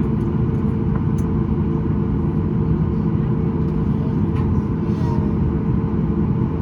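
Steady low rumble of a Boeing 737 MAX 8's jet engines and airflow, heard inside the passenger cabin.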